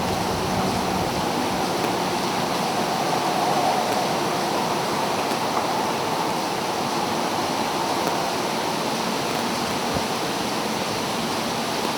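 Strong, steady wind blowing through the woods, an even noise with no breaks.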